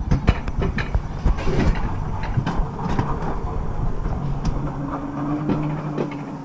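Steady low rumble of a moving vehicle, with many irregular knocks and rattles over it and a faint hum that rises in pitch about two-thirds of the way through.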